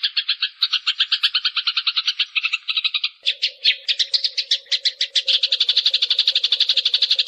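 Eurasian tree sparrows chirping in a fast, unbroken run of about eight to ten chirps a second. About three seconds in, the chirping changes pattern and a steady low hum starts underneath.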